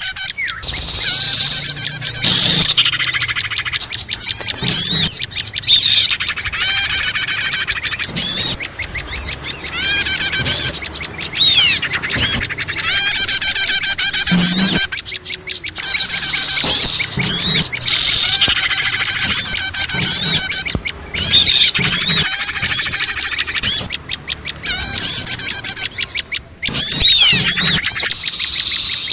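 Dense, overlapping chirping and trilling of many small songbirds at once, fast repeated notes and sweeping whistles with brief lulls every few seconds: a busy bird-lure recording of small birds calling, used to draw small birds in.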